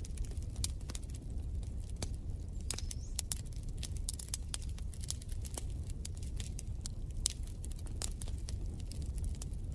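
Wood fire crackling in a fireplace: irregular sharp pops and snaps over a steady low rumble, with a brief faint high whistle about three seconds in.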